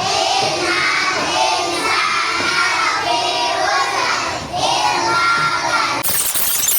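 Young children singing together. About six seconds in, the singing is cut off by a sudden loud hiss of noise.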